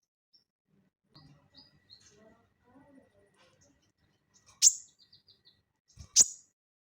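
A sogon bird giving two loud, sharp call notes about a second and a half apart, with a few faint short chirps around them.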